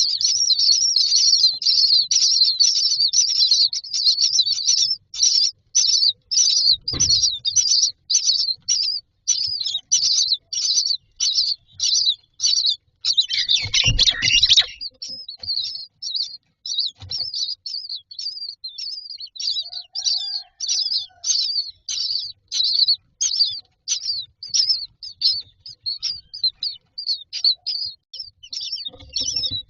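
Common myna nestlings begging: a rapid, even run of short, high-pitched calls, about two to three a second, that hardly lets up. A few dull knocks come in among them, the loudest about 14 seconds in, where the calls crowd together.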